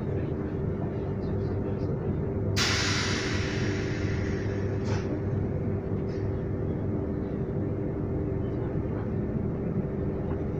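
Transilien line P train running with a steady rumble and a steady hum. About two and a half seconds in, a sudden loud hiss starts and fades away over about two seconds.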